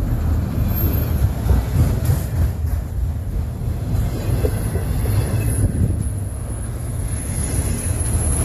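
Freight train cars rolling past close by: a steady low rumble of steel wheels on the rails. A faint, thin high whine comes in about five seconds in.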